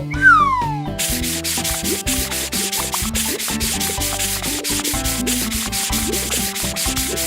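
A rhythmic scrubbing sound effect, brisk rubbing strokes at about five a second, over background music. It starts about a second in, just after a short falling cartoon whistle.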